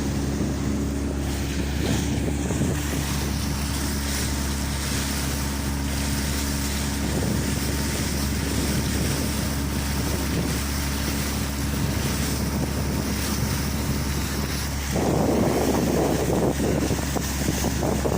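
Boat engine running steadily under way, with wind buffeting the microphone and water rushing past. About 15 seconds in, the wind and water rush gets louder.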